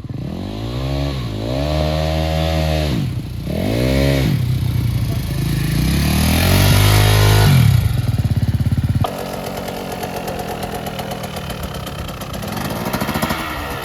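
Dirt bike engine revved four times, its pitch climbing and falling with each rev; the longest and loudest comes about seven seconds in. About nine seconds in it changes suddenly to a steadier, lower running note with a fast pulse.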